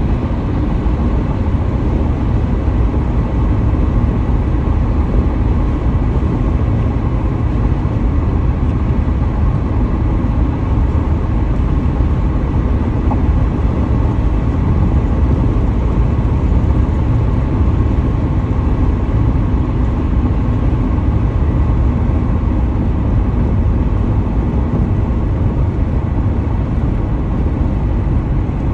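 Car driving at highway speed: a steady rumble of tyre, wind and engine noise, with no changes.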